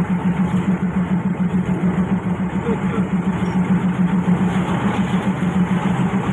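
Diesel railcar engine running with a steady, evenly pulsing drone.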